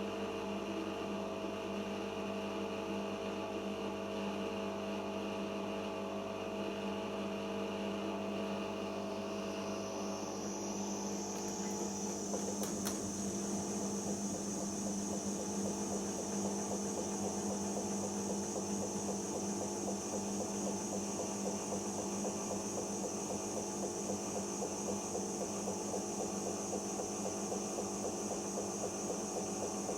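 Siemens iQ 1430 washing machine in the spin after the first rinse: a steady motor hum, with a high whine that rises about ten seconds in and then holds as the drum comes up to speed, despite the no-spin option being set.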